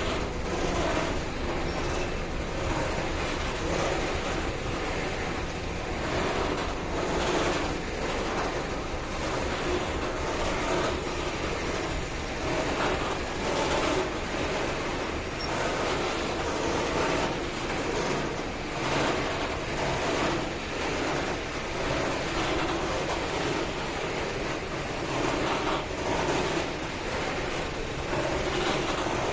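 Train rolling past on the tracks: a steady rolling rumble with frequent irregular clatter from the wheels and wagons.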